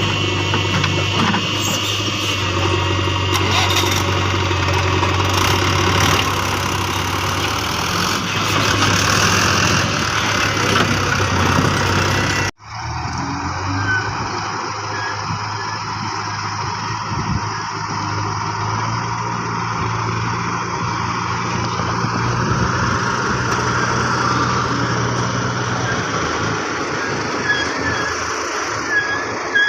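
Diesel engines of a backhoe loader and tractors running steadily while working, with an abrupt cut about a third of the way through. Near the end comes a run of short high chirps.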